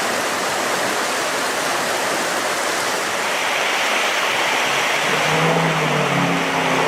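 Steady rushing of river water around a Range Rover wading through it. About five seconds in, the vehicle's engine note rises into hearing beneath the water noise.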